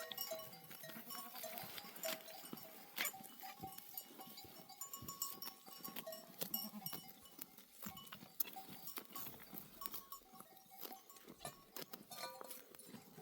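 Flock of sheep and goats: small bells on the animals clinking and ringing, with scattered clicks and an occasional bleat, fairly faint.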